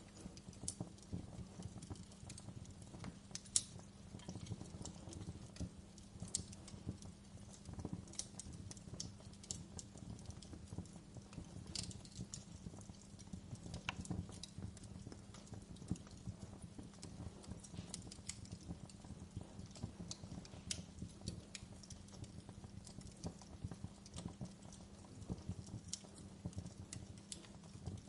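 Logs burning in a fireplace, crackling with irregular sharp pops and snaps, several a second, over a low rumble and a steady low hum. A single louder snap comes about three and a half seconds in.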